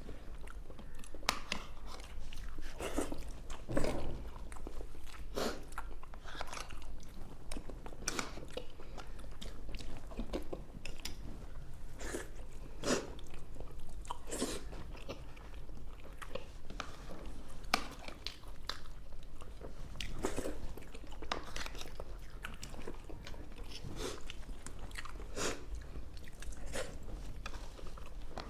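Close-miked eating of South Indian tiffin such as idli and vada with sambar: irregular wet chewing, biting and mouth smacks, with a steady low hum underneath.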